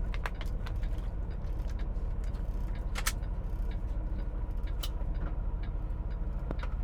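Semi-truck diesel engine idling, a steady low rumble heard inside the cab, with scattered sharp clicks and ticks, the loudest about three and five seconds in.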